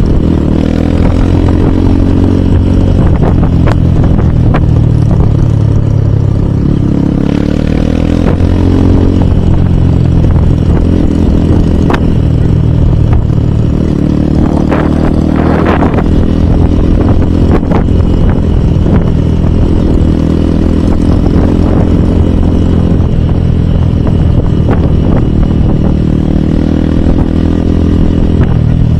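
Hero Hunk motorcycle's 150 cc single-cylinder engine running under way, its pitch rising and falling with the throttle through the ride. A few sharp knocks or clatters come near the middle.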